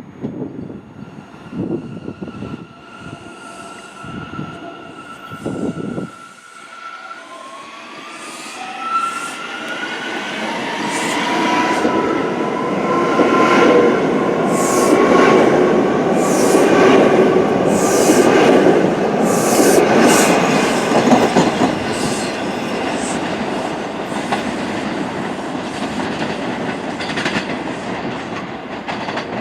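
New York City subway train running on the rails: a motor whine rises in pitch about seven seconds in. The rumble builds to a loud peak with sharp wheel squeals in the middle, then slowly eases.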